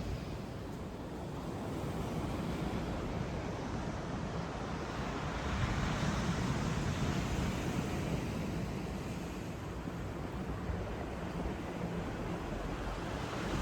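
Ocean surf washing and breaking, with wind buffeting the microphone; it swells a little about halfway.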